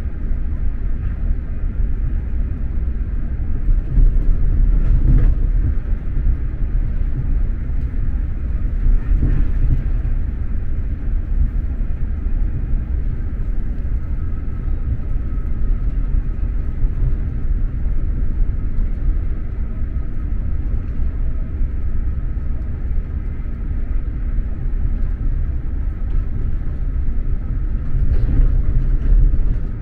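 SJ X2000 high-speed electric train running at speed, heard from inside the passenger coach: a steady low rumble of wheels on track. The rumble swells briefly about four seconds in and again near the end, and a faint steady whine comes in during the second half.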